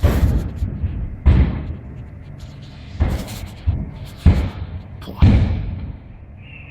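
A series of five loud bangs over about five seconds, each a sharp blast with a short low rumble after it. They sound like gunshots.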